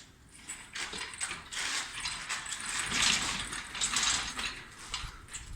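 Rapid metallic ratcheting and clicking from workshop tools, with irregular clanks, loudest about halfway through.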